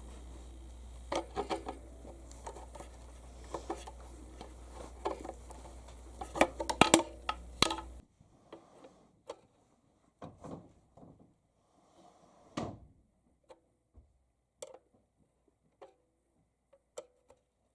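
A steady low electrical hum from a car amplifier driving a subwoofer, with scattered clicks and knocks of handling. The hum and background hiss cut off suddenly about eight seconds in, as if the amp were switched off. A few light taps and knocks follow.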